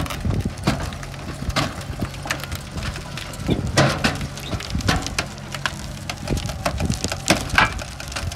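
Ford sedan's engine running hard and steadily, broken by sharp, irregular knocks and cracks about a dozen times. It is being run deliberately until it breaks apart.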